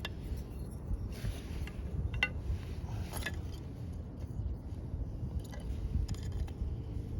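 Scrap-wood campfire burning, crackling with several sharp pops scattered over a low steady rumble.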